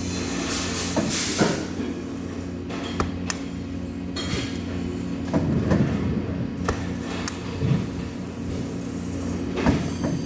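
Workshop machinery humming steadily, with scattered metallic knocks and clanks and a few short hisses.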